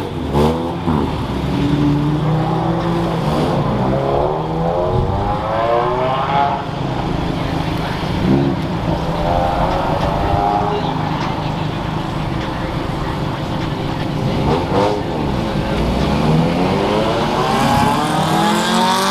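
Several car engines accelerating hard one after another, each engine note rising in pitch as it revs up.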